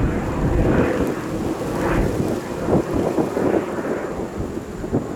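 Loud, continuous rumbling roar of a large jet airliner's engines, crackling and fluctuating, as at takeoff power.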